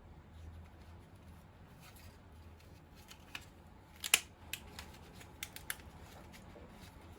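Several sharp clicks and taps of small hard parts or tools being handled, the loudest about four seconds in, over a low steady hum.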